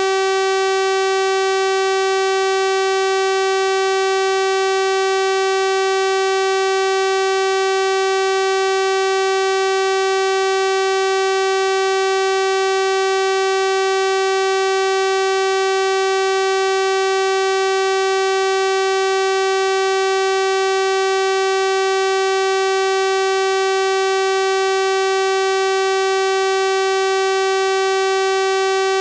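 Synthesized 384 Hz sawtooth-wave tone, held steady at one pitch with a bright, buzzy stack of overtones.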